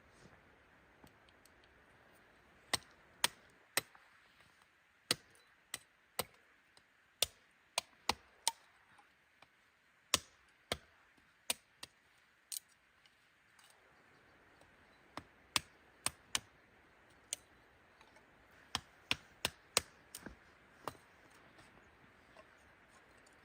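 Sharp, irregular clicks and snaps, often a few close together with short lulls between, over a steady faint hiss.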